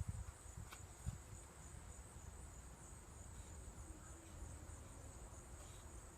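Insects, likely crickets, chirring in a steady high-pitched drone, over a low rumble, with a couple of faint knocks in the first second or so.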